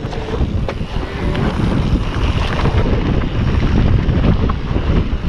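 Wind buffeting the microphone of a camera riding along on a mountain bike, over steady tyre rumble on a dirt trail, with scattered clicks and knocks from the bike.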